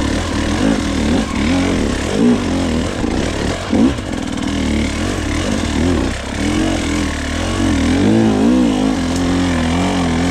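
Gas Gas enduro dirt bike engine under load, its revs rising and falling again and again as the throttle is worked over rough, rocky ground on a climb.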